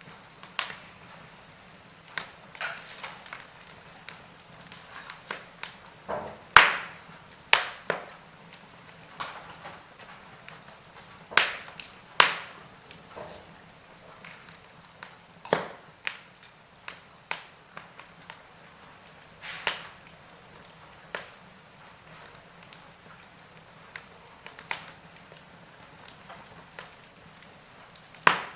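Wood fire in a fireplace crackling, with irregular sharp pops and snaps from the burning logs over a faint hiss.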